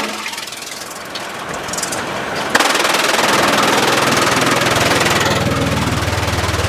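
Sawmill machinery: a sudden loud, noisy onset about two and a half seconds in, followed by an engine running with a low, evenly pulsing throb.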